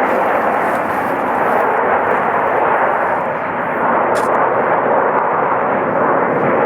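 Loud, steady engine noise of a jet aircraft flying over, a continuous rushing drone with no break.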